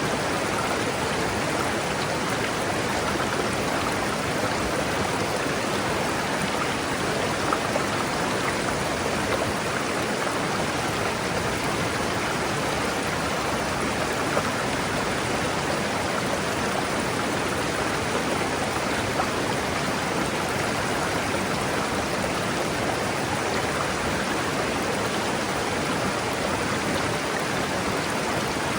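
River water rushing and splashing over rocks, a steady, even rush.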